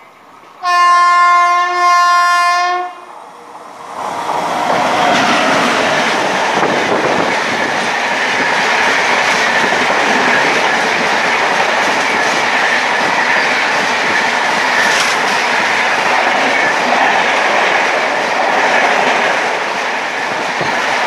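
Indian Railways WAP7 electric locomotive sounding its horn in two blasts, the first a little longer. Then the express train runs past at speed, a steady loud rush with wheels clacking over the rail joints.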